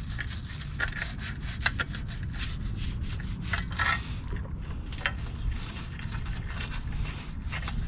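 Motorcycle chain being scrubbed clean by hand, an irregular run of short rubbing, scratchy strokes.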